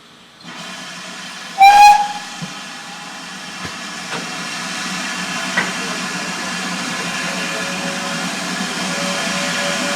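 Steam locomotive whistle: one short, loud blast about two seconds in, sagging slightly in pitch. It is followed by a steady hissing, rumbling train noise that grows gradually louder as the locomotive approaches.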